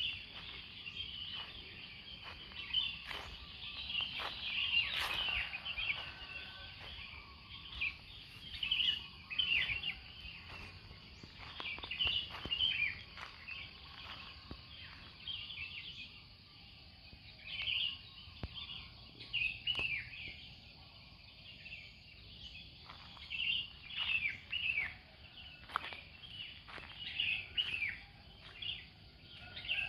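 Birds chirping and calling, many short high calls overlapping one another, over a faint steady background hiss.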